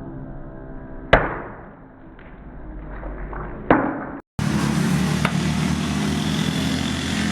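Two sharp chopping strikes about two and a half seconds apart, each ringing briefly, as a heavy chopper knife bites into wood. After a sudden cut, a steady motor hum.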